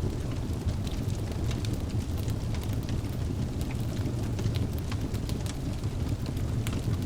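Wood fire burning in a fireplace: a steady low rumble of flames with frequent small, irregular crackles and pops from the logs.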